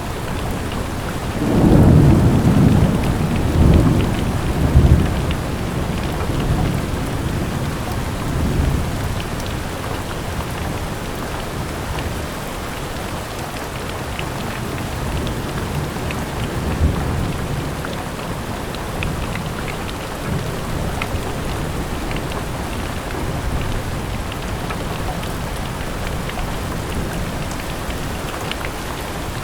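Steady rain falling, with a low roll of thunder that starts about a second and a half in, rumbles loudest for a few seconds and dies away by about nine seconds.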